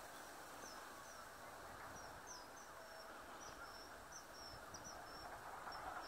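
Faint outdoor ambience with a steady low hiss, over which small birds give many short, high chirps scattered throughout.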